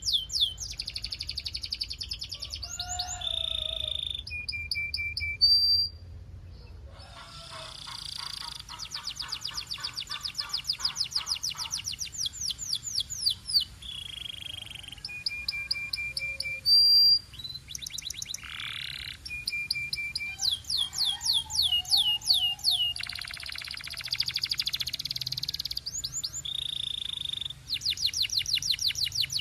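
Canary singing a long, varied song. Fast trills of rapidly repeated sweeping notes alternate with short held whistles, and the phrase changes every second or two.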